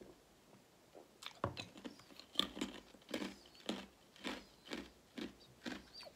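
A person chewing close to the microphone, about two chews a second, starting a little over a second in.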